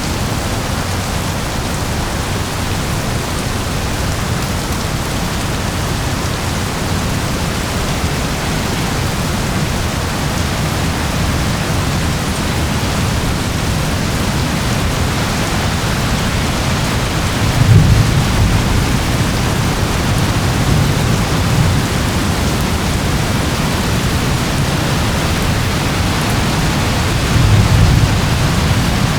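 Steady heavy rain, with two low rumbles swelling up, one a little past the middle and one near the end.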